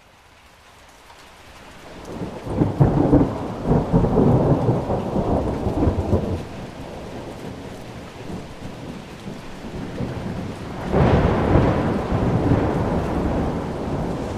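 Heavy rain with rolling thunder, fading in at the start. One long rumble of thunder comes in about two and a half seconds in and dies down after about four seconds, and a second rumble breaks in suddenly near the end, over steady rain.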